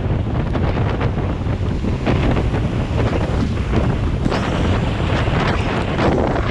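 Wind buffeting the microphone: a continuous low rumble with dense, irregular crackling over it, with rain falling.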